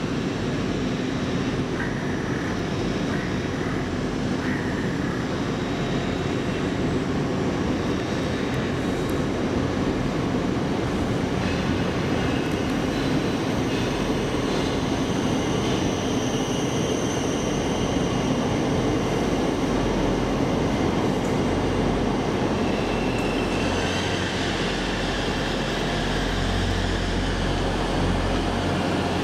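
Passenger train running at a terminus platform: a steady train noise, with a deeper rumble building about 24 seconds in.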